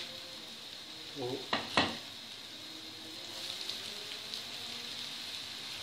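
Breadcrumb-coated potato rings frying in a pan of hot oil: a steady sizzle, with a brief sharp knock a little under two seconds in.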